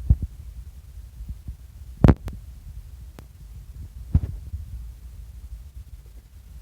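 Chewing a burger close to the microphone: dull low thumps about every two seconds over a steady low rumble, with a few faint clicks.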